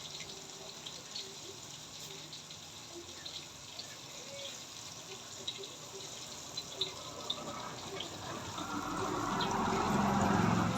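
Water running or pouring, with scattered small clicks, swelling louder toward the end.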